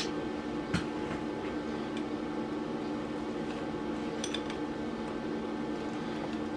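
Steady electrical hum in the workshop, with a few light metallic clinks of hand tools on metal, about a second in and again around four seconds in.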